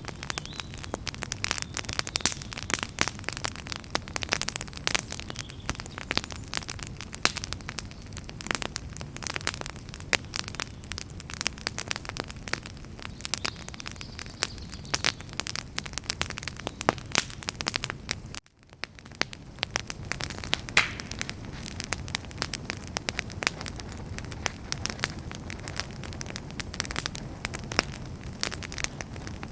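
Wood campfire crackling and popping: many irregular sharp snaps over a steady hiss of burning wood. About two-thirds of the way through the sound cuts out for a moment, then fades back in.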